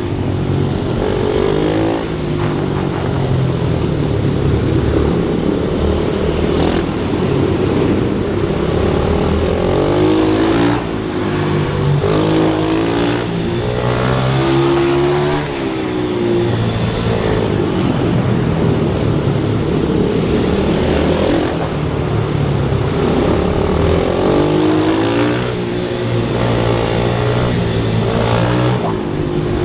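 Pit bike engine running hard, its pitch rising and falling again and again as the bike accelerates and slows.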